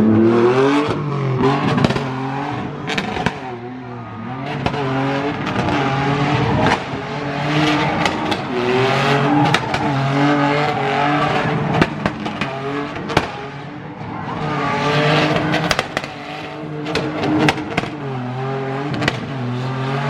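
Drift car engine held at high revs, its pitch rising and falling again and again as the car is driven, with tyres squealing and many sharp cracks throughout.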